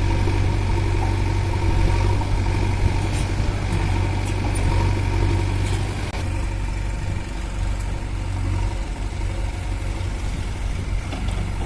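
Diesel engine of a heavy machine running steadily at low revs, a little quieter from about six seconds in.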